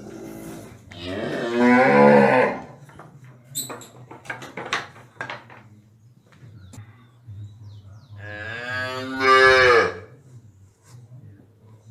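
Cow bellowing, two long drawn-out moos about six seconds apart, each rising to a loud peak before breaking off, with a few knocks between the calls.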